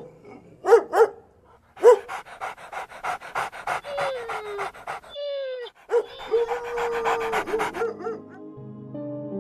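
Shiba Inu yipping in short pairs, then panting rapidly, with drawn-out whines that fall in pitch and one long held whine. A few more short yips follow before soft music fades in near the end.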